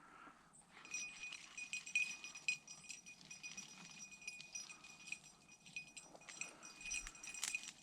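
A small bell on a hunting dog's collar jingling rapidly and faintly as the cocker spaniel works the cover, setting in about a second in.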